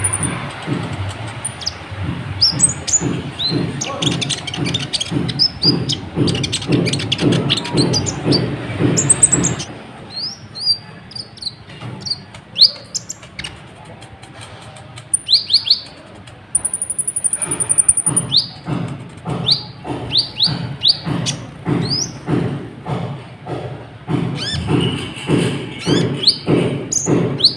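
Kolibri ninja sunbird singing in fast, sharp, high chirps that slur downward. For much of the time a steady low pulse, about two to three a second, runs underneath. It drops out in the middle stretch.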